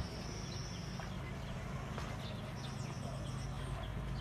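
Birds chirping: many short, high chirps and two held high whistling notes, over a steady low rumble of outdoor background noise.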